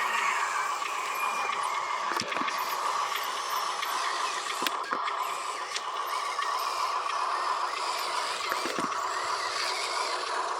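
Small electric motors and plastic gearing of a radio-controlled construction vehicle running steadily with a constant whine, broken by occasional sharp clicks.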